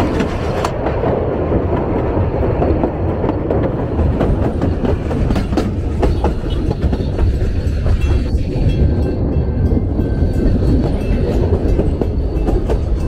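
A passenger train carriage running along the track: a steady rumble with wheels clicking over the rail joints.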